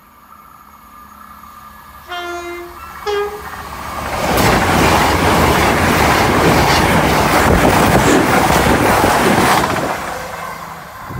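CrossCountry Voyager diesel multiple unit sounds its two-tone warning horn, a longer lower note then a short higher one. It then passes close by at speed for about six seconds, a loud rush of wheels on rail and underfloor diesel engines that fades near the end.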